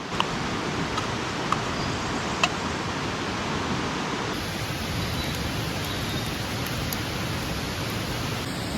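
Steady rushing of a mountain stream, with a few sharp pops from a wood campfire.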